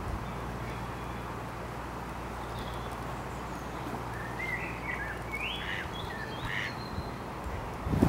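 Outdoor lakeside ambience with a steady low rumble, and a quick run of short bird calls about halfway through.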